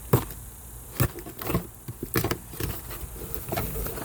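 A cardboard shipping box being handled and opened, with several sharp knocks and scraping, rustling sounds.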